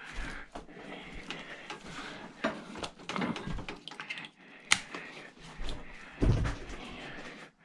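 Irregular clicks, knocks and rustling of objects being handled and set down, with one sharp click a little past halfway and a dull thump soon after.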